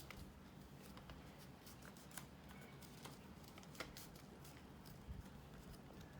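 Faint rustling and crinkling of a sheet of A4 paper being folded and creased by hand, with scattered light ticks.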